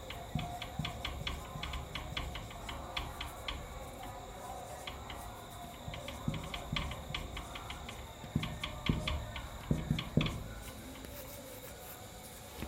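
Irregular light clicks and ticks in quick clusters, with a few soft low thumps about two-thirds of the way through, over a faint steady hum.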